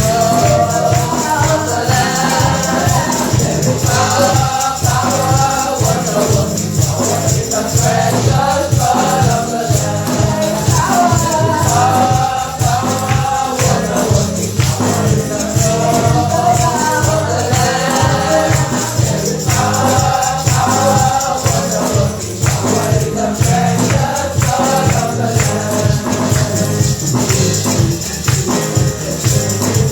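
Congregational gospel singing with a choir, backed by a steady rhythm and tambourine shaken throughout.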